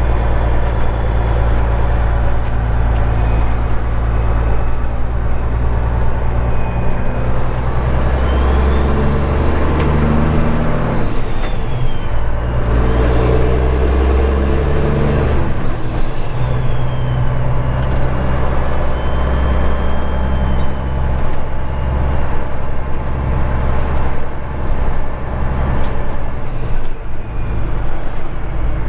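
Straight-piped Caterpillar 3406E diesel in a Kenworth W900 running under light throttle as the truck pulls away slowly, its note rising and falling with the throttle. About halfway through, a high whistle rises and then falls.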